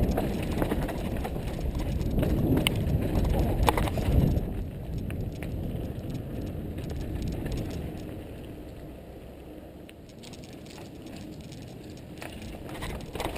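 Mountain bike rolling over a dirt trail: tyre rumble with the frame and chain rattling and clicking over bumps. It is louder and rougher for the first four seconds or so, then quieter.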